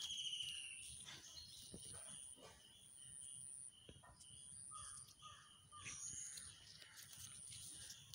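Faint bird calls: short chirping notes repeated in quick series, over a high, thin tone that starts and stops in stretches of about a second.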